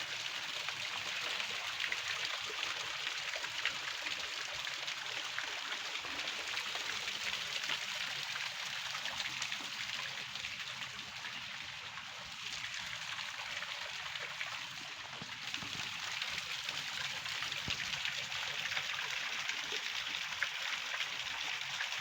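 Waterfall water rushing and splashing: a steady, even rushing noise that eases slightly about halfway through.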